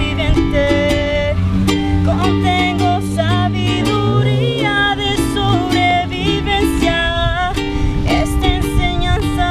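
A voice singing a song in Spanish to a strummed ukulele.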